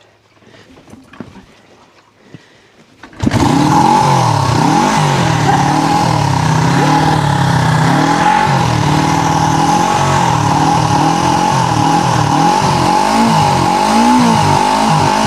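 Faint knocks, then about three seconds in the 1973 Yamaha TX500's parallel-twin engine catches on a kick start and keeps running steadily on full choke, its note rising and falling a little.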